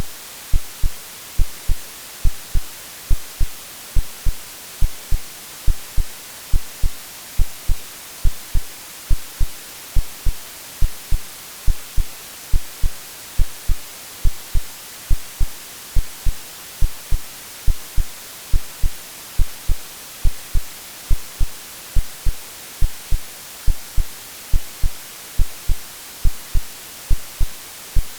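Heartbeat sound: regular low thumps, evenly spaced, over a steady white-noise hiss. The two are AI-generated and laid together as a womb-like soothing sound.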